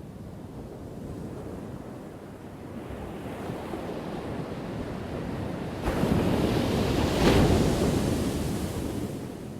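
Ocean waves crashing: the surf swells from about three seconds in, a wave breaks suddenly about six seconds in, peaks a second later, then washes out near the end.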